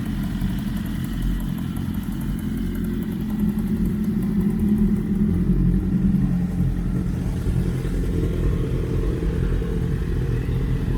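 Several sport motorcycles with aftermarket exhausts running together at idle, a loud steady rumble that grows a little louder about four seconds in. The big liter bikes' exhausts drown out the smaller ones.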